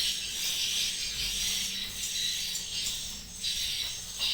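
High twittering chatter of edible-nest swiftlets, a dense steady chirping over a faint low hum.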